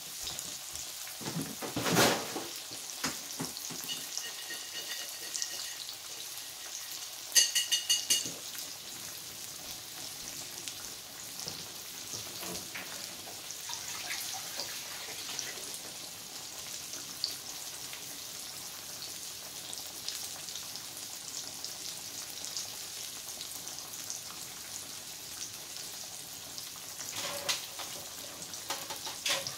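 Breaded pork chop frying in hot oil in a cast-iron skillet, a steady sizzle and crackle. A louder knock comes about two seconds in, a brief high ringing sound about seven seconds in, and a few small knocks near the end.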